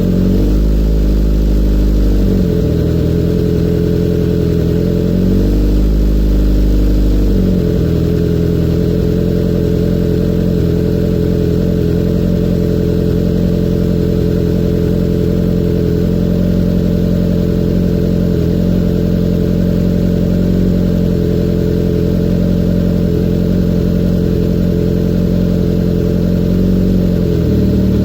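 2018 Kawasaki Z900's inline-four idling through a full Akrapovic exhaust with the dB killer removed, warming up after a cold start with no revving. The idle is steady, but its pitch sags and recovers twice in the first eight seconds and once more near the end.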